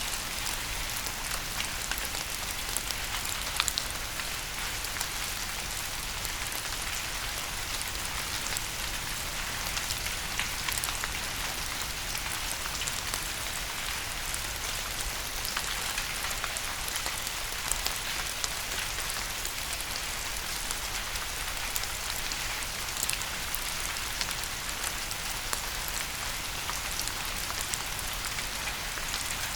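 Steady rain, an even hiss with many sharp drop taps scattered through it.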